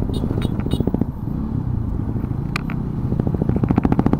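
Motorcycle engine running on the move with a steady low rumble; about three seconds in its rapid, even beat grows louder, as the bike accelerates.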